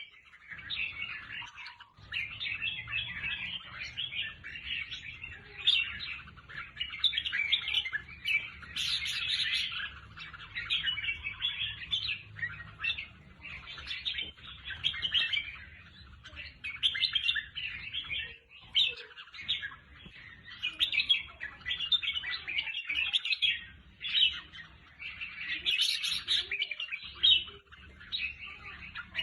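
Red-whiskered bulbul song: runs of bright chirping phrases, one after another, with brief pauses between them.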